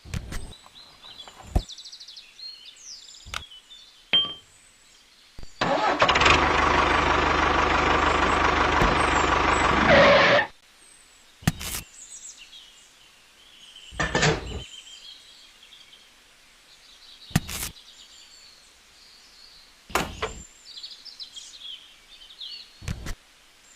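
An engine running steadily for about five seconds, starting about six seconds in and cutting off sharply, with scattered sharp clicks and faint bird chirps around it.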